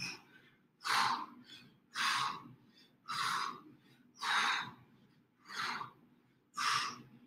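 A man breathing hard in a steady rhythm while doing crunches, six short forceful breaths about one a second, the breathing of heavy exertion.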